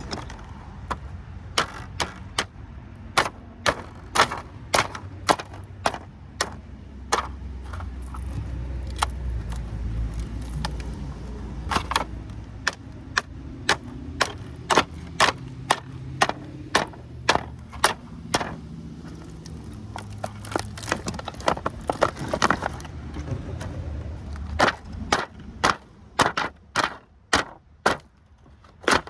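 Repeated sharp knocks, irregular at about one to two a second, as copper windings are worked out of a transformer and straightened. A passing vehicle rumbles low underneath through the middle.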